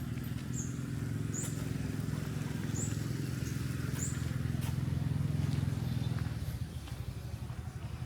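A motor vehicle's engine running as it passes, a low steady drone that grows louder, then fades away about six and a half seconds in. Four short high chirps sound over it in the first few seconds.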